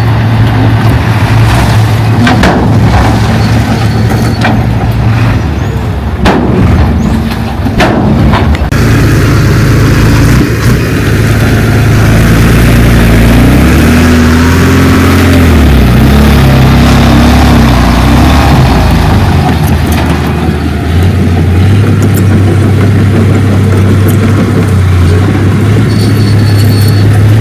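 Heavy diesel earthmoving machinery running hard, with a steady engine drone. Several sharp metal clanks come in the first few seconds, and the engine note shifts and rises and falls under changing load through the middle.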